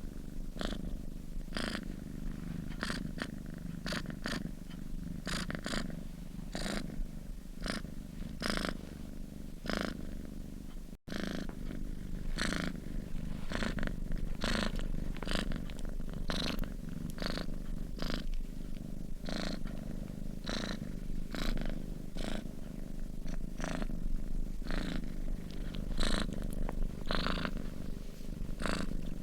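Sleeping domestic cat purring steadily, the purr rising and falling in regular pulses about one and a half times a second, with a momentary drop-out about eleven seconds in.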